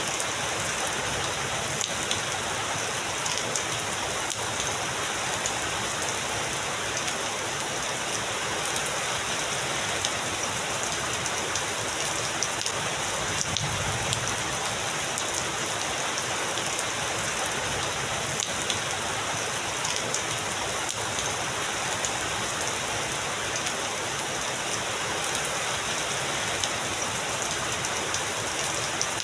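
Heavy rain falling steadily, a dense even wash of noise with scattered sharp ticks of single drops hitting nearby surfaces.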